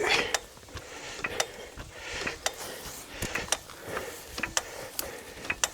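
A vehicle jack being worked to lift a vehicle: a run of irregular metal clicks and clacks, a few a second.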